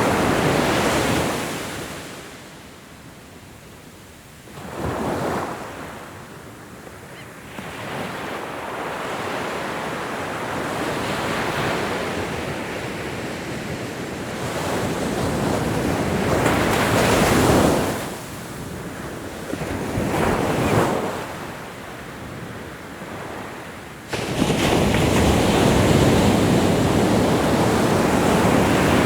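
Ocean waves breaking and washing up the shore in repeated surges, each swelling to a rush and then ebbing away. About halfway through a wave builds slowly to a loud crash. Near the end the surf comes in suddenly loud and stays loud.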